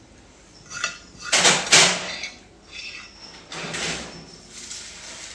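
Oven door and metal baking tray being handled, with clattering and scraping. The loudest clatter comes about a second and a half in, and a smaller one about four seconds in.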